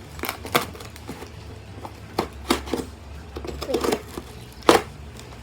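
Cardboard shipping box being worked open by hand: a scattered series of sharp clicks and knocks from the cardboard and packing, the loudest one near the end.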